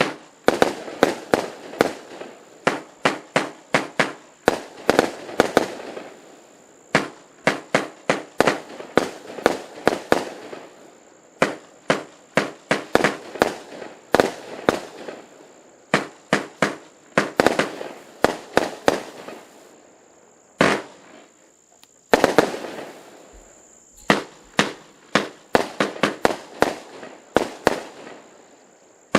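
Fireworks going off in a rapid series of sharp bangs, about two or three a second, each followed by a short crackling tail. The bangs pause briefly about twenty seconds in, then start again.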